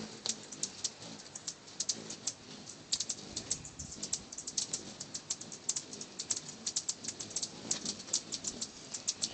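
Many hummingbirds at feeders giving rapid, irregular high chip calls, several short ticks a second, overlapping.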